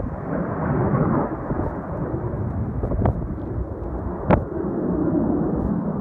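Strong wind buffeting the microphone in a dense, low rumble, with two sharp knocks, one about three seconds in and a louder one about four seconds in.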